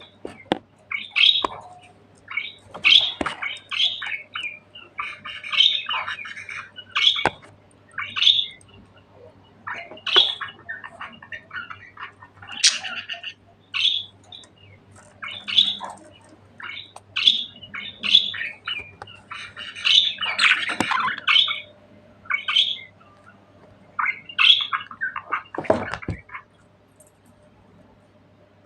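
Budgerigars chirping and squawking in short, sharp calls that come a few at a time, falling quiet near the end.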